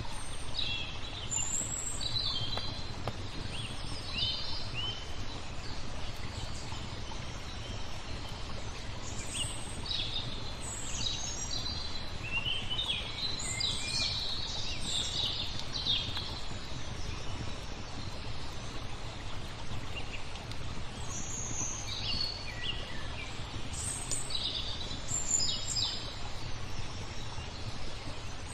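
Small songbirds chirping and twittering in short, high calls, busiest around the middle of the stretch and again later on, over a steady low background rush.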